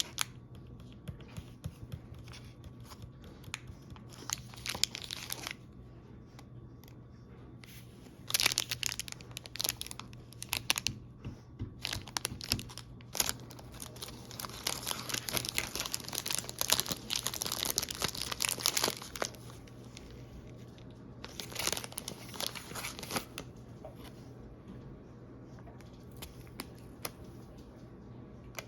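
Snack packaging being crinkled and torn open by hand, in several irregular spells of crackling, the longest and densest a little past the middle.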